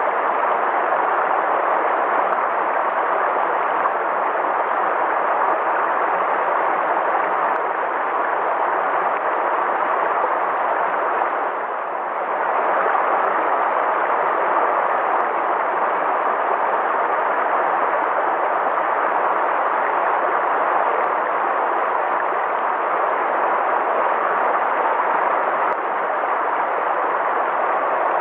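River water flowing steadily, an even, continuous rush with a brief dip in level about twelve seconds in.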